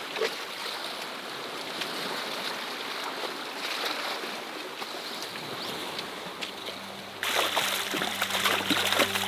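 Seawater sloshing and splashing on a rocky shore, a steady wash of water noise. About seven seconds in, the sound jumps abruptly louder and background music with steady tones comes in.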